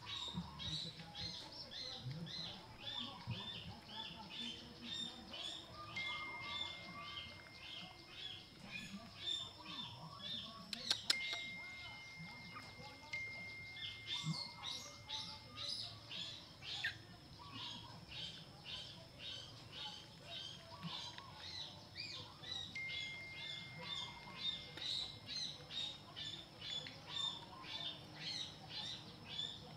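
Birds chirping in the background, short high chirps repeating about two to three times a second, over a faint steady high hum. A single sharp click about eleven seconds in.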